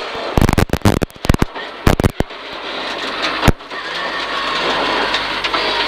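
Peugeot 306 rally car driven hard on a loose gravel stage, engine and road noise from inside the car. A burst of sharp knocks and clatter comes in the first two seconds and a single hard knock comes about halfway, then the engine builds again.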